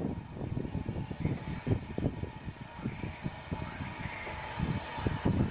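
A steady steam hiss from a half-scale Burrell traction engine's R.A. Barker high-pressure injector as it runs, feeding water into the boiler, with irregular low knocks and rattles underneath.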